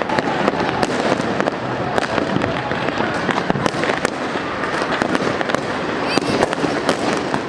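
Many fireworks and firecrackers going off at once: a dense, continuous run of sharp pops and bangs over a constant crackling haze.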